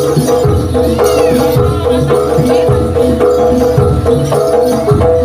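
Live East Javanese jaranan gamelan music through a loud sound system: a repeating pattern of pitched notes over regular drum strokes.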